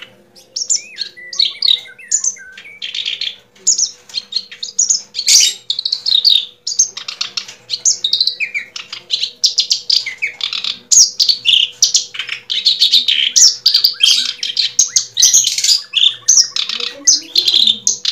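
Bird chirping and twittering in quick, continuous high trills and chirps, over a faint steady hum.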